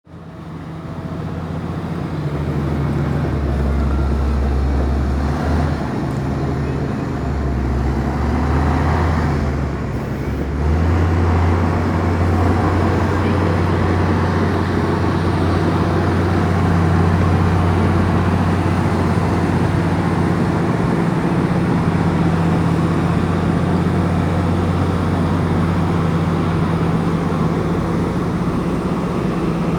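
Komatsu crawler bulldozer's diesel engine working as it pushes dirt, a steady low drone whose pitch shifts several times in the first ten seconds or so, then holds steady.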